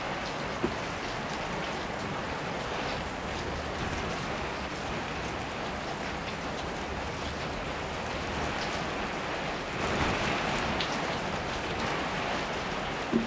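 Heavy rain falling steadily, a dense even hiss of drops, swelling louder for a few seconds near the end. A couple of sharp taps stand out, one near the start and one near the end.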